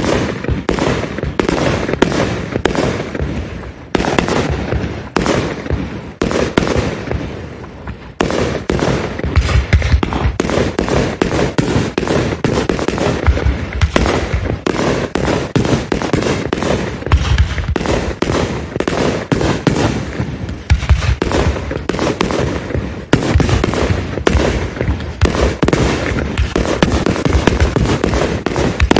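Aerial fireworks barrage: a rapid, nearly continuous volley of bangs and crackling bursts with deep low booms, starting suddenly at the beginning.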